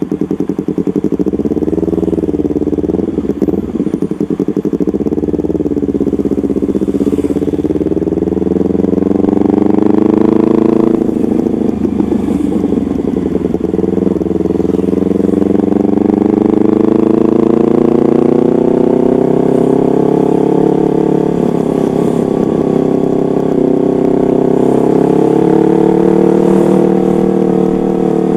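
Yamaha MT-25's parallel-twin engine running through a custom aftermarket exhaust, its note climbing slowly over several seconds and falling back again, with a sharp drop in pitch about eleven seconds in.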